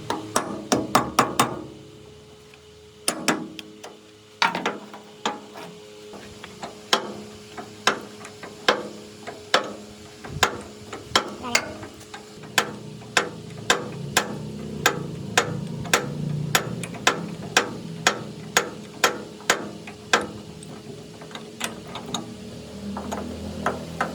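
Repeated hammering: a quick flurry of sharp blows, then a steady run of strikes at about one to two a second, over a steady low hum.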